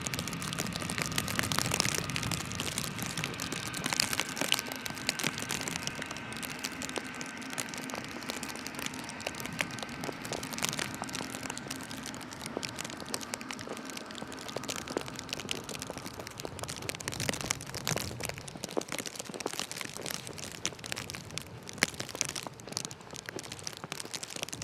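Footsteps crunching in snow, a dense run of crackling steps, under a steady hum of city background that fades out about fifteen seconds in.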